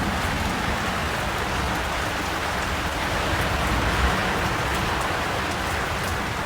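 Heavy rain from a thunderstorm falling steadily as an even, continuous hiss.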